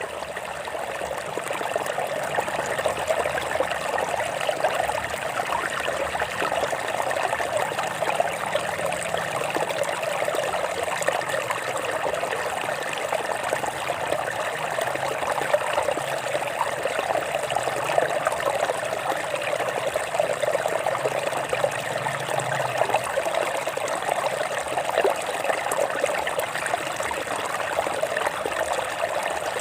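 Stream water trickling and babbling over rocks, a steady rush flecked with small splashes.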